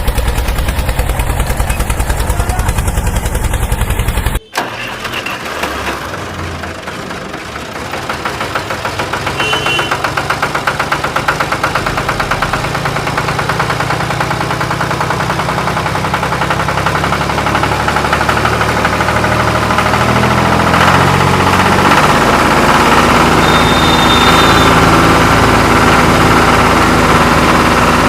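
Music until a sudden cut about four seconds in, then an engine running with a rapid, even pulse that grows steadily louder.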